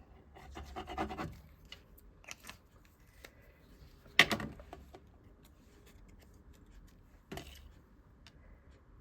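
Paper being slid and rubbed down by hand on a craft table, with a sharp tap just after four seconds in and a lighter one later.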